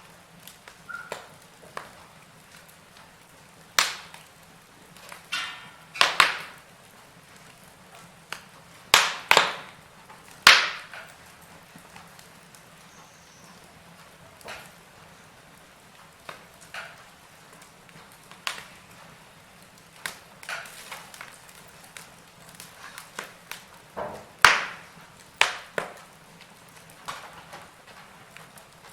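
Wood fire in a fireplace crackling, with irregular sharp pops, a few much louder than the rest, over a faint steady background.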